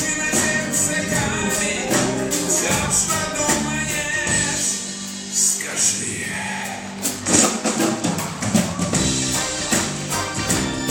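A live band playing a song with singing and a steady beat of sharp cymbal or tambourine strokes; the music thins briefly about halfway through, then comes back in full.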